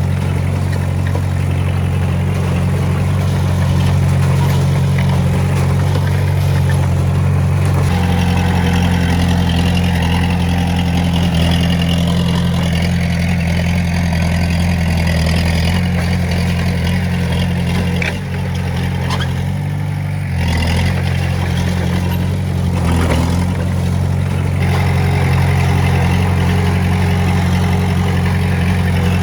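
Heavy machinery diesel engine running steadily at work. Its note shifts about eight seconds in and dips briefly about two-thirds of the way through.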